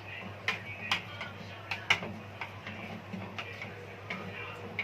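Light, irregular clicks and taps of peeled shrimp being placed one by one into a bowl of batter, over a low steady hum.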